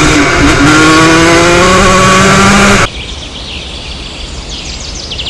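A motocross bike's engine runs loud and close for about three seconds, its pitch rising slowly as it accelerates, then cuts off abruptly. Birds chirp after it.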